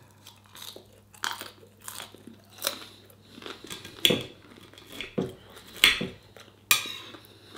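Close-up chewing and biting of a mouthful of chips and curry, with irregular crunches, while a knife and fork work on the plate.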